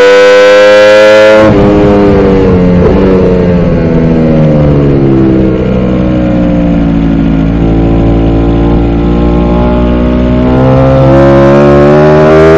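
Ducati Panigale V4 R race bike's V4 engine at high revs on the straight, then the throttle closes about a second and a half in and the engine note falls in pitch over several seconds as the bike slows for a corner. It holds a lower note through the turn and rises again near the end as the throttle opens on the exit.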